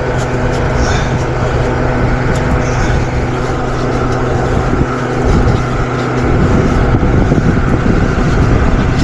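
A motor or engine running steadily: a constant low hum under an even rushing noise, with no starts or stops.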